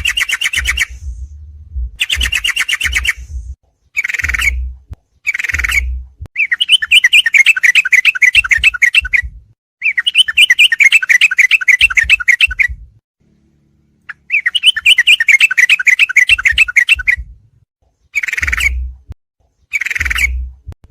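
Recorded song of a yellow-vented bulbul (trucuk): repeated bursts of fast, chattering trilled phrases, some short and some running two to three seconds, separated by brief pauses, with a low rumble under many of the bursts.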